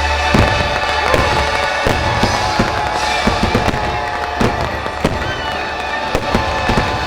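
Aerial fireworks bursting in a rapid string of bangs, a couple a second at times, over the show's orchestral music.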